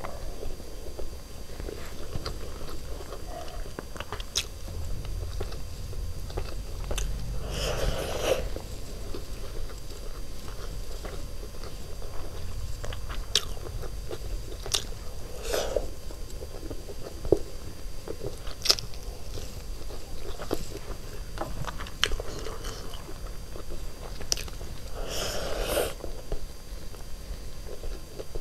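Close-miked mouth sounds of a person chewing chicken biryani eaten by hand: many short, scattered wet clicks and smacks, with a few louder swells.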